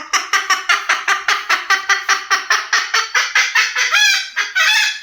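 White cockatoo imitating a chicken's clucking: a fast, even run of short clucks, about six a second, for nearly four seconds. Near the end it breaks into a few gliding notes and starts a harsh, drawn-out squawk.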